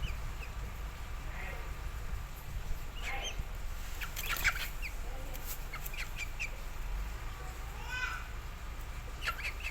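Birds calling on and off: short squawks and clucks, with a rising call near the end, over a steady low rumble.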